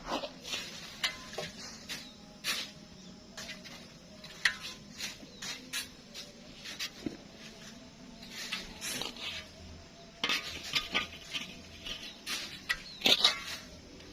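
Shovels scraping into soft sand and flinging it, a string of irregular short scrapes and hisses, several a second at the busiest moments.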